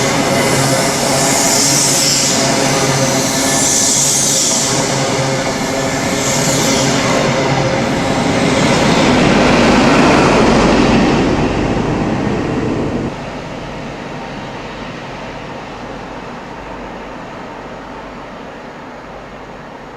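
InterCity 125 High Speed Train passing at speed: its diesel power car's engine runs under a rushing wheel-and-rail noise, with a high hiss that pulses about every two seconds. The sound swells to its loudest a little past halfway, drops suddenly, then fades away.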